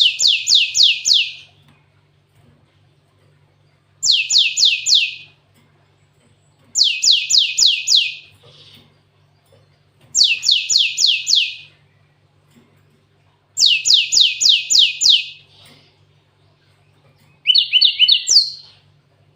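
Cinereous tit (gelatik batu) singing canary-style song: five loud phrases, each of five or six quick notes sweeping downward, about a second long and coming every three seconds or so, then a shorter phrase of different notes near the end. A faint steady low hum runs underneath.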